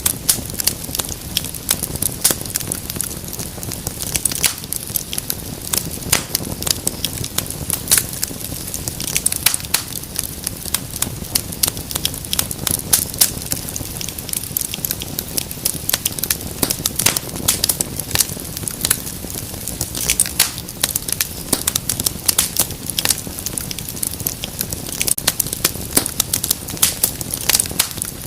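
Wood fire crackling, with dense irregular pops and snaps over a steady low rumble of burning.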